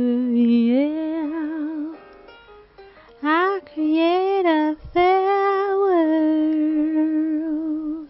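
A solo voice singing a wordless melody, long held notes with vibrato, over a light plucked-string accompaniment; the song ends just at the close.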